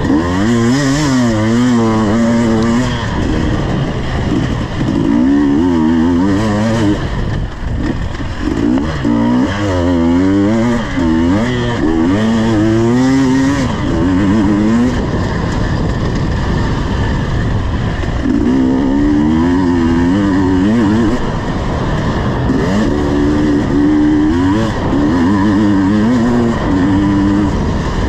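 KTM 250 EXC two-stroke enduro engine being ridden hard, revving up and down again and again. It eases off for a few seconds past the middle, then picks up again in repeated rises and falls.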